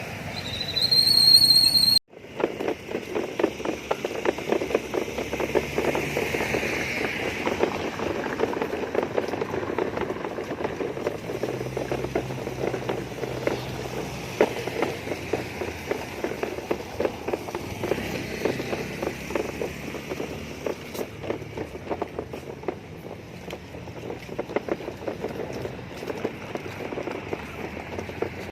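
A short rising whistle tone about two seconds long, then after a brief break a steady, dense crackling patter of rain drops.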